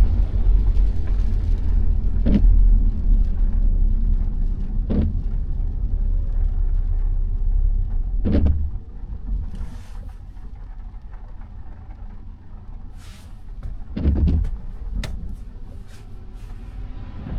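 Car driving in the rain: a steady low road rumble, with a short swish every two to three seconds, like windscreen wipers sweeping. About halfway through the rumble drops and quietens as the car slows, then picks up again near the end.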